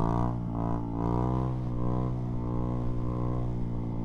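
Honda Grom's single-cylinder 125 cc engine held at high, fairly steady revs under throttle while the bike is wheelied, the pitch wavering slightly.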